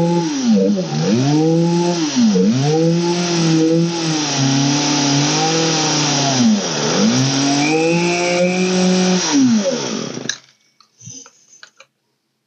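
Old Poulan 3616 two-stroke chainsaw engine running with its revs rising and falling over and over as the throttle is worked during carburetor tuning, then stopping abruptly about ten seconds in. A few faint clicks follow.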